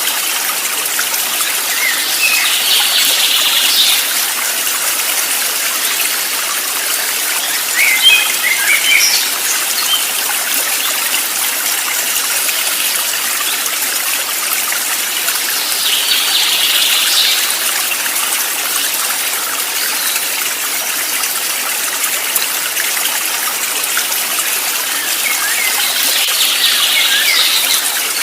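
Running stream water hissing steadily, with small birds chirping in short bursts four times.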